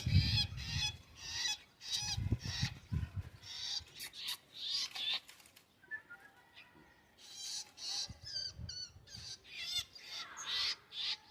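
Shrikes giving repeated high, wavering calls in short clusters, with a few low handling or rustling sounds in between.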